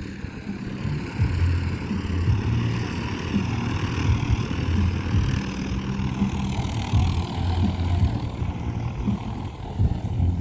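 An engine running at a steady idle, a low hum that wavers in strength, over general outdoor background noise.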